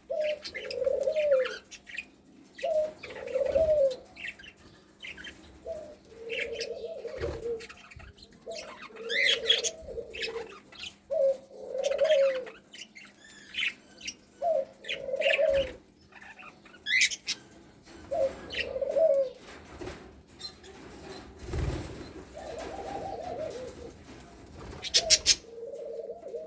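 Budgerigars chirping in short high notes over a low cooing call repeated about every second and a half, with a few sharp clicks near the end.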